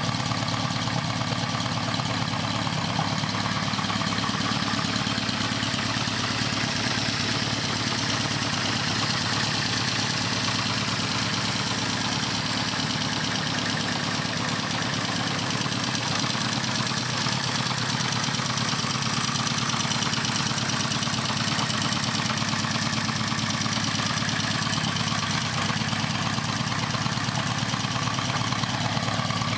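1976 Honda CB550's air-cooled inline-four engine idling steadily through a Jardine 4-into-2 exhaust.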